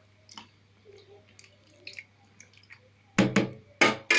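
Kitchen handling around wet food: faint small clicks and drips, then a few loud sudden clatters near the end.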